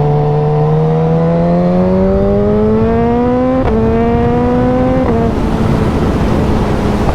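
Suzuki 1000cc naked motorcycle engine accelerating, its pitch rising steadily, with two quick upshifts about three and a half and five seconds in, then holding a steady note. Wind rush throughout.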